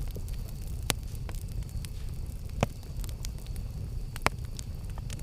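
Campfire burning with a steady low rumble and scattered sharp crackles and pops from the burning wood, three of them louder than the rest.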